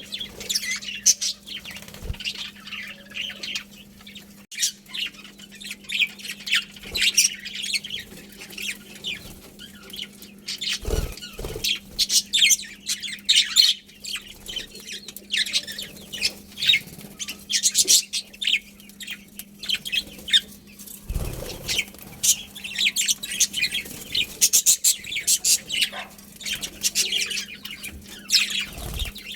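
A colony of budgerigars chattering, with many quick, high chirps overlapping throughout. There is a faint steady low hum underneath and a couple of low thumps.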